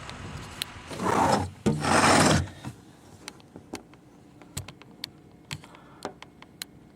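Two short rushing, rubbing noises about a second in, followed by a string of scattered light clicks and taps, like handling noise on a camera microphone.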